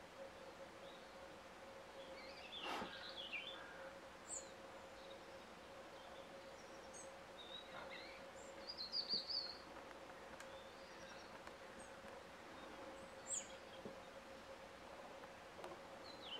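Songbirds giving scattered short, high chirps and sharp ticks, with a small flurry about nine seconds in. A faint steady hum runs underneath.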